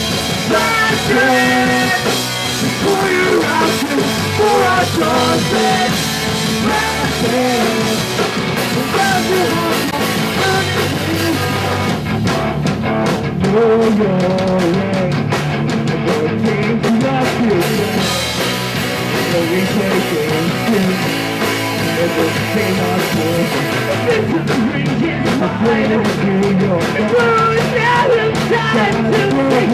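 Live punk rock band playing a song: distorted guitars, bass and drum kit with a singer's vocals, loud and steady throughout.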